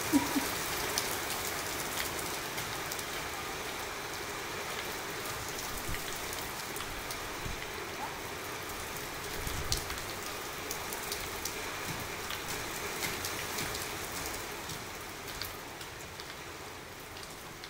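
Rain falling on a wet tiled rooftop terrace: a steady hiss with many scattered sharp drop clicks, growing a little fainter over the last few seconds.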